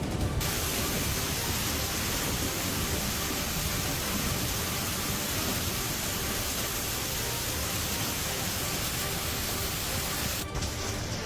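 Steady, dense rushing of heavy storm water, even from deep to very high pitches. It cuts in abruptly about half a second in and cuts out abruptly near the end.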